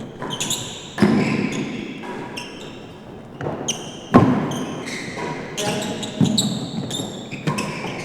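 Real tennis rally: rackets striking the hard ball and the ball knocking off the court's walls and floor. It comes as a string of sharp knocks, each echoing in the enclosed court, with the loudest a little past four seconds in.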